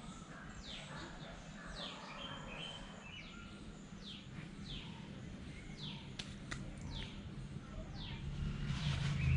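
Bird calling repeatedly, each call a quick falling whistled note, about one a second, over steady outdoor background noise. A few sharp clicks come a little past the middle.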